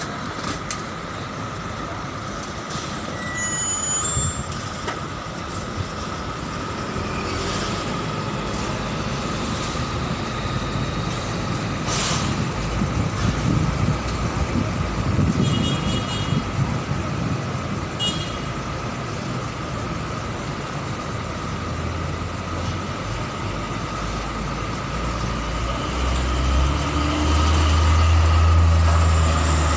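Heavy trailer-truck engines running as the trucks maneuver, with a steady whine throughout and a few short sharp noises along the way; near the end the engine note swells louder.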